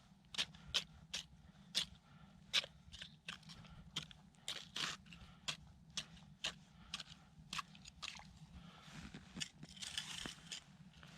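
Footsteps crunching in snow, a regular stride of short sharp crunches, roughly one to two a second.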